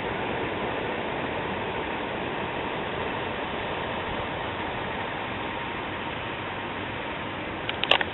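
Steady road and engine noise heard inside a moving car, with a few short clicks near the end.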